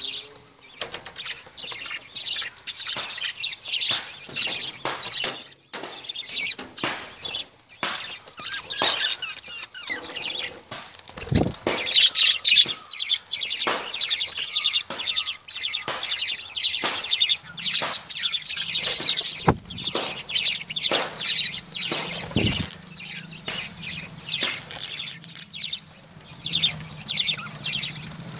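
Pet lovebirds chattering: a continuous stream of rapid, high-pitched chirps and squeaks from several birds. A faint low hum comes in about two-thirds of the way through.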